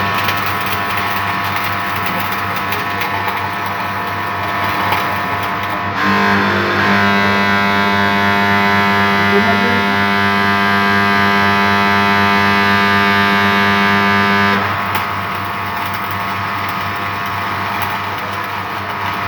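Electric arc welder at work: a steady crackling buzz over a strong mains hum. From about six seconds in until near fifteen seconds it grows louder, with a harsher, steady pitched buzz, then settles back.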